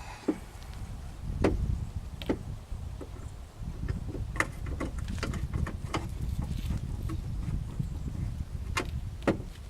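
Scattered, irregular clicks and taps of a hand screwdriver and screws as a plastic taillight assembly is fastened back in place, over a continuous low rumble.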